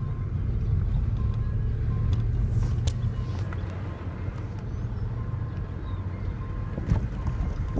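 Steady low rumble of a car moving, with a faint tone that comes and goes.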